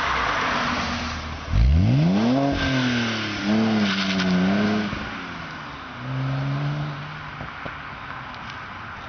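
BMW E92 325i straight-six engine revving through a custom exhaust. About a second and a half in it revs up sharply and holds a wavering rev, blips again briefly around six seconds, then settles and fades.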